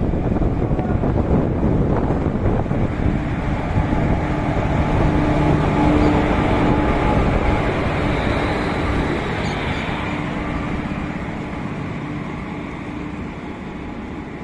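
Indian Railways WAG-9 electric locomotive passing through at speed: rumble and clatter of wheels on rail with steady humming tones from the locomotive. It is loudest about six seconds in, then fades as it moves away.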